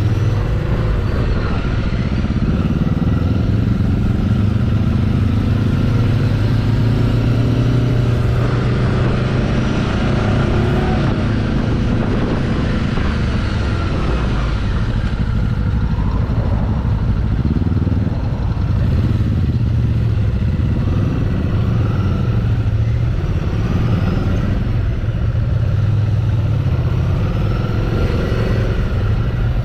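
Ducati Scrambler Sixty2's 399 cc air-cooled L-twin engine running under way on the road, its note rising and falling with throttle and gear changes.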